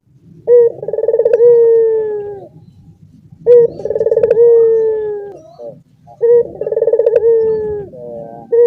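Puter turtle doves cooing: three long coos, each a quick rolling stutter that runs into a held note sliding gently down.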